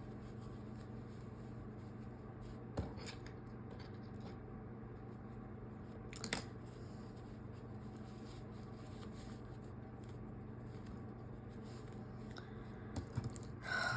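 Quiet hand-work on small fabric pieces: two soft clicks, about three seconds apart, and light rustling near the end, over a steady low electrical hum.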